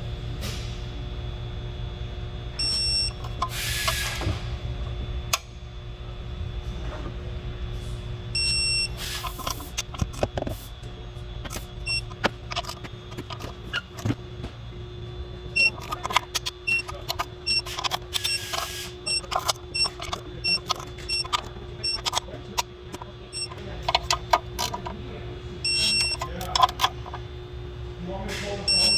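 Hand tools clicking and ratcheting on engine parts over a steady background hum, with a run of short high electronic beeps at an even pace and a few brief hissing bursts.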